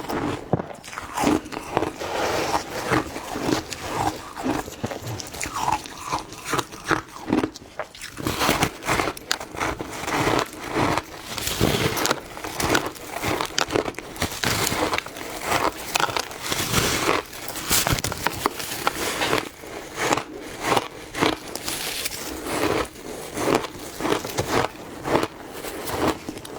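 Ice being bitten and chewed close to the microphone: a continuous run of crisp crunches, a couple or more every second.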